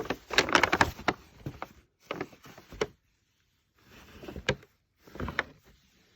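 Paper gift bag rustling and crinkling in short bursts, with sharp crackles, as a cat thrashes about trying to free himself from it.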